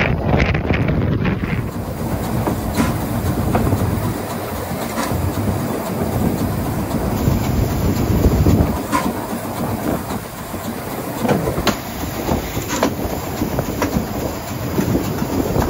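Selfkant Bahn steam train running along the track: a steady rumble with the clickety-clack of wheels over rail joints, single clicks every second or few.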